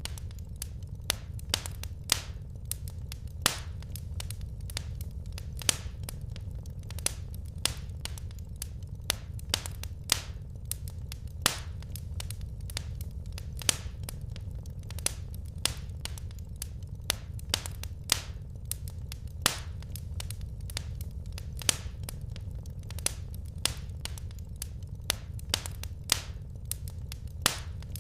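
Wood fire crackling in a fireplace: irregular sharp pops and snaps from the burning logs, several a second, over a steady low rumble of the flames.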